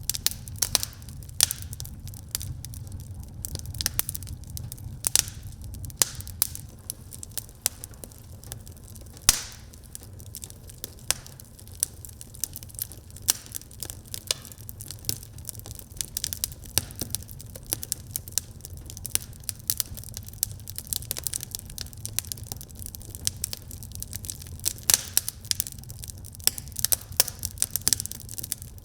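Wood fire burning in a fireplace: frequent sharp crackles and pops, a few louder snaps among them, over a steady low rumble of the flames.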